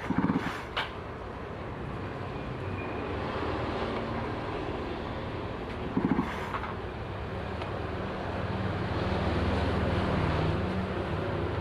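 Small outboard motor running steadily, under a rushing haze of noise. Its hum grows louder about eight seconds in and eases slightly near the end.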